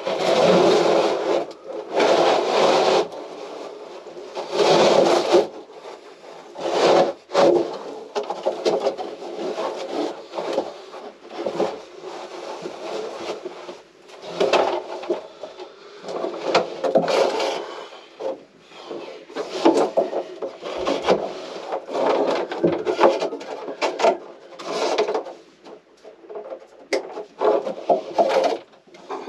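Hand-worked scraping and rasping against wood, in irregular strokes, as wooden interior fittings of a small sailboat are stripped out. The strokes are longest and loudest in the first few seconds, then shorter and choppier.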